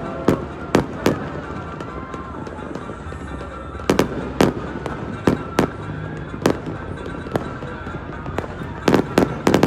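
Aerial fireworks exploding: sharp, irregular bangs, sometimes two or three in quick succession and a rapid cluster near the end, over a steady background of crowd noise and faint music.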